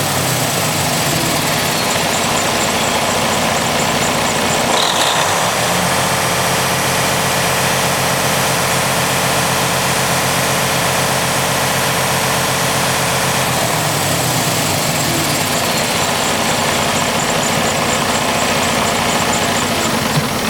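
Detroit DD15 14.8-litre inline-six diesel engine running steadily, its note shifting briefly about five seconds in and again around fourteen seconds in.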